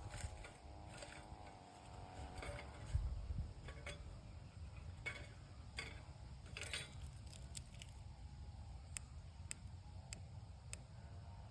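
Campfire crackling, with scattered sharp pops and snaps, a few single clean snaps spaced out near the end. A dull thump about three seconds in.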